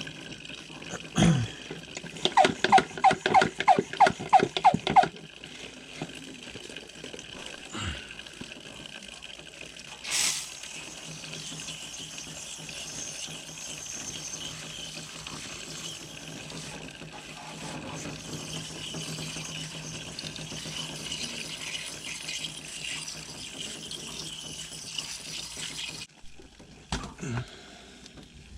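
Steady hiss of liquid spraying onto an air-conditioner coil during cleaning. A couple of seconds in there is a quick run of about a dozen squeaky strokes, and there is a single knock about ten seconds in.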